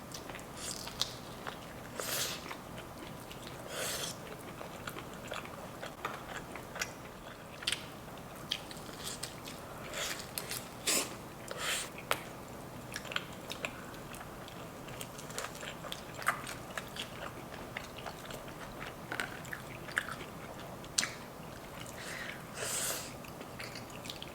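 Close-miked eating sounds: a person biting and chewing a garlic Parmesan chicken wing, with short irregular crunches and mouth clicks.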